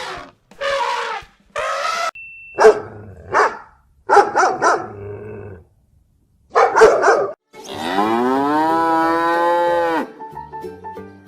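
Cows mooing, with one long drawn-out moo of about two seconds near the end. Before it come a string of short, sharp calls, dog barks among them.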